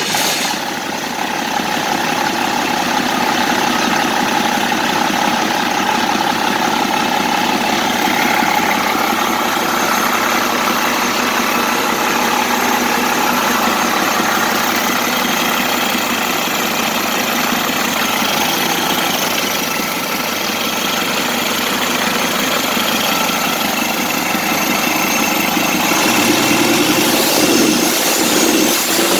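1995 International DT466 NGD 7.6 L inline-six diesel engine with a mechanical inline injection pump, running at a steady idle on a test run. Near the end its note shifts and it grows a little louder.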